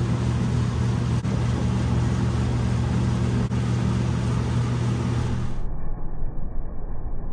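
A steady low engine-like hum, which gives way abruptly about two-thirds of the way through to a duller, muffled noise.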